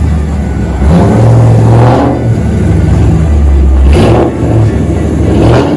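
Car engine revved hard in repeated loud bursts, swelling and dropping several times.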